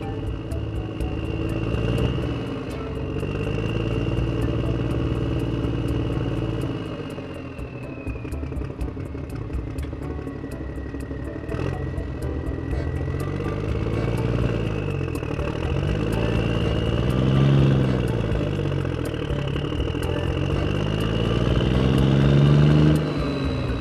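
A motor running and revving up and down in repeated swells, with a steady high whine over it and light clatter.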